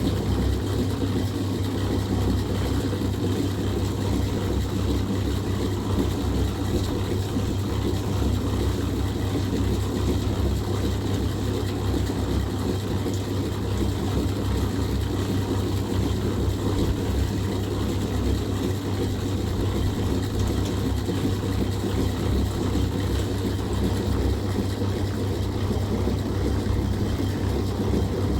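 A steady low rumble that runs without pause or change.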